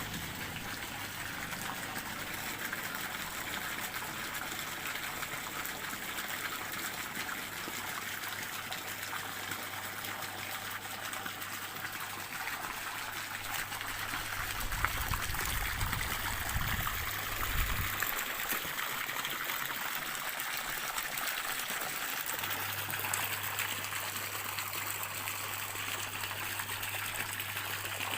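Stream water trickling and running steadily, with a brief low rumble about halfway through.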